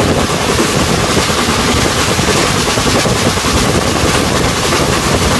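Steady, loud rumble of a vehicle in motion.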